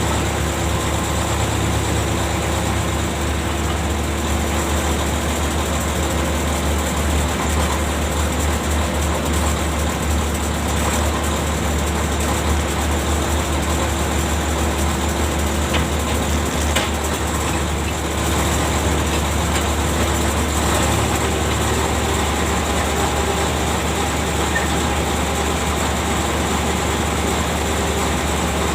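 Ship's deck machinery running steadily: a constant low hum with a steady mid-pitched tone over it, unbroken throughout.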